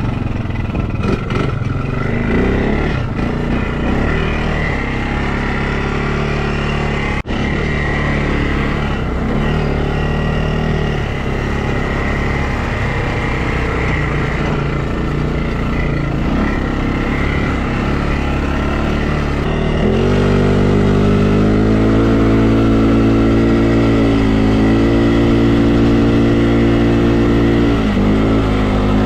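Quad bike engine running under throttle while being ridden, its note shifting with the throttle. About two-thirds of the way through it settles into a louder, steadier pitch, then dips briefly near the end.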